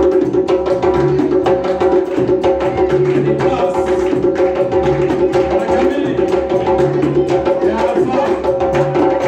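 Live band music with a fast percussion beat over held instrument tones and a repeating bass line.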